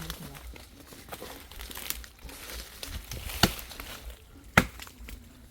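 Chopping blows into a dry log that is still hard inside. A couple of light knocks come about two seconds in, then two sharp strikes about a second apart near the end, with rustling of dry leaves and brush between them.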